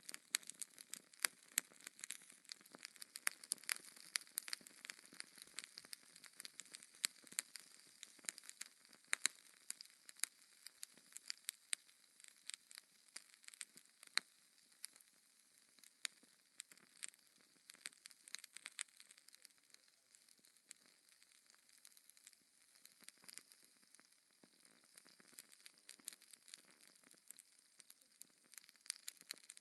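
Fire crackling in a fireplace: many irregular sharp pops and snaps over a soft hiss, a little sparser in the last third.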